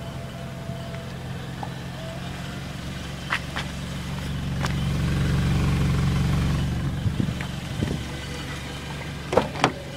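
2011 Kia Sportage's inline-four engine idling, a steady low hum that grows louder for a few seconds around the middle and then falls back. A couple of sharp clicks near the end.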